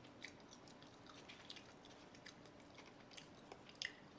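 A person chewing food close to the microphone: faint, irregular wet mouth clicks and smacks, a couple of them louder near the end.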